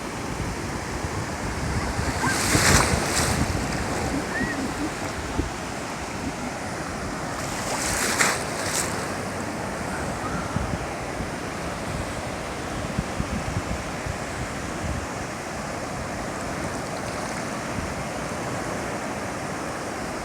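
Ocean surf washing on a beach, a steady rush with wind. Two louder surges of hissing wash come about three and eight seconds in.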